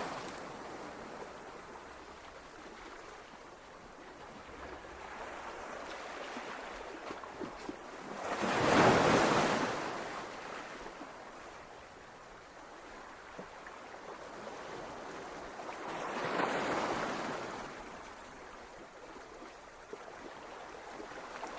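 Ocean surf on a beach: a steady wash of water with two louder waves breaking, about nine and seventeen seconds in.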